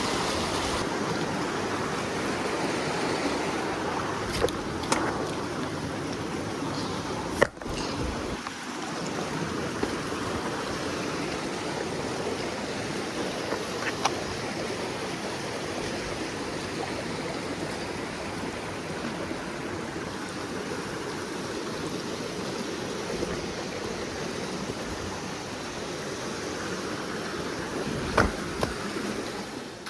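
River water flowing steadily as a continuous rushing hiss, with a few sharp knocks and clicks scattered through it.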